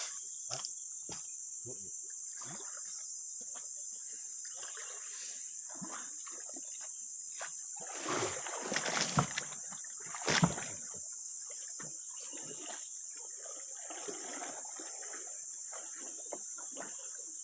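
Insects keep up a steady high-pitched drone throughout, over scattered short knocks and splashes, with a louder burst of splashing and knocking about eight to ten seconds in.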